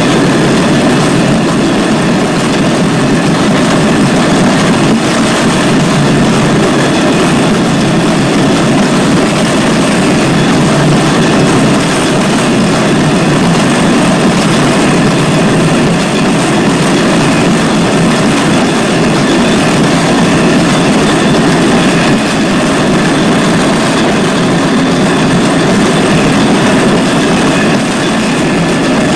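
Rail vehicle moving steadily along the track, a loud continuous running noise of wheels on rail.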